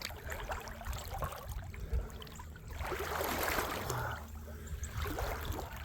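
Creek water running, with the rustle and crunch of footsteps along the bank that swell about halfway through.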